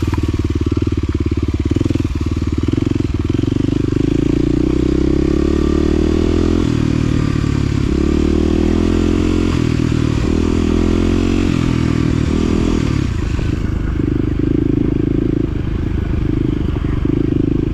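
Side-by-side UTV engine running continuously as it drives a rough, steep trail, its engine note rising and falling with the throttle.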